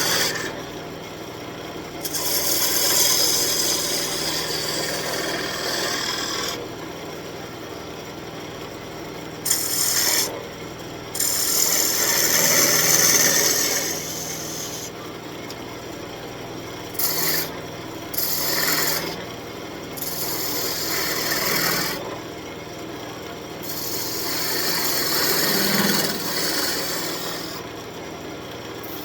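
Wood lathe spinning an elm blank while a turning tool cuts it, a rough scraping hiss that comes and goes in passes of a few seconds, with the lathe's steady hum underneath between cuts.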